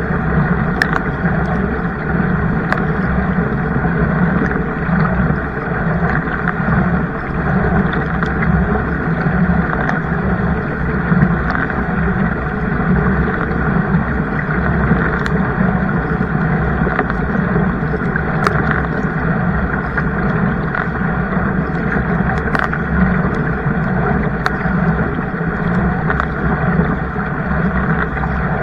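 Steady rushing of wind and water on the microphone during kayaking, with a few faint clicks.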